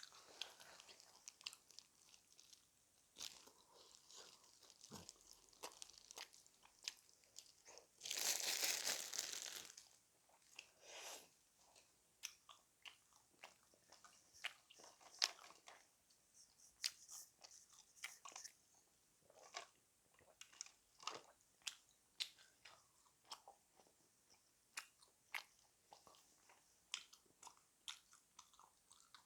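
Close-up chewing and biting of crispy fried chicken: faint, irregular crunches and wet mouth clicks, with one louder, hissing noise lasting about two seconds around eight seconds in.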